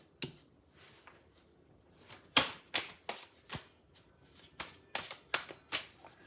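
Deck of oracle cards being shuffled and handled by hand: a couple of faint card snaps, then from about two seconds in a quick run of about eight sharp snaps and slaps, a few a second.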